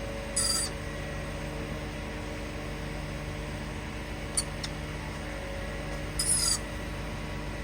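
A parrot giving short, high squeaky calls: one about half a second in, a brief one near the middle, and a longer one about six seconds in, over a steady low hum.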